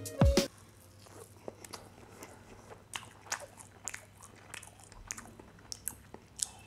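A man biting into and chewing a piece of soft, steamed khaman dhokla. There is a louder moment as the bite is taken, then faint, scattered wet clicks of chewing.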